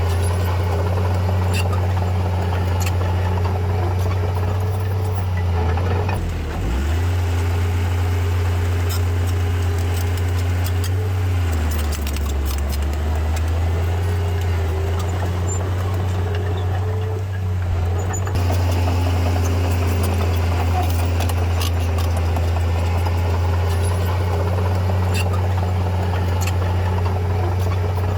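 Komatsu D31P bulldozer's diesel engine running with a steady low drone and faint scattered clicks. Its note sags briefly about a quarter of the way in, then drops lower for several seconds in the middle before rising back.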